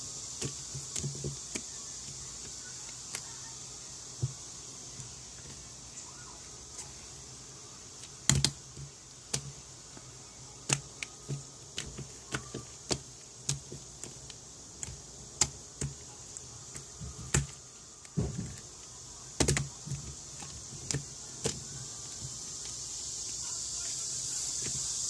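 Slime being pressed and worked by hand, giving irregular sharp clicks and pops, about one or two a second, over a steady hiss.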